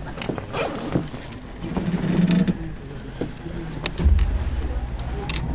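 Inside a stopped electric commuter train: scattered clicks and knocks, then a steady low rumble that starts suddenly about four seconds in.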